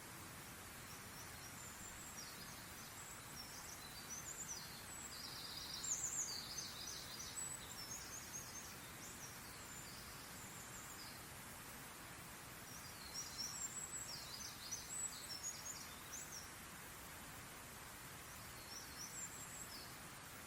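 Songbirds chirping in quick, high-pitched phrases: two main bouts, then a few fainter notes near the end, over a steady background hiss.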